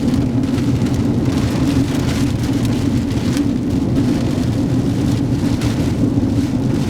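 A car driving, heard from inside the cabin: a steady road and engine rumble, with rain hitting the car.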